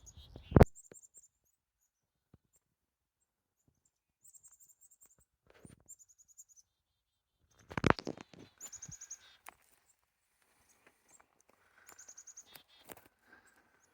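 Songbirds calling outdoors: short, high, rapidly repeated-note phrases come several times with quiet between them. Two loud knocks break in, one about half a second in and one near the middle.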